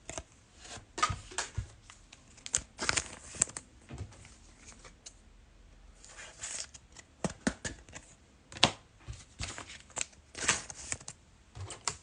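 Trading-card pack being handled: wrapper crinkling and tearing and cards shuffling and tapping, in irregular short rustles and snaps.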